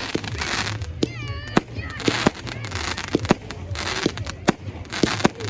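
Fireworks going off: a rapid, uneven run of sharp bangs and cracks, mixed with stretches of crackling hiss.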